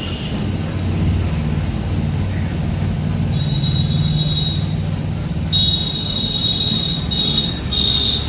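Train running with a steady low rumble. A thin high-pitched squeal comes in about three seconds in and returns louder near the end, in a few stretches.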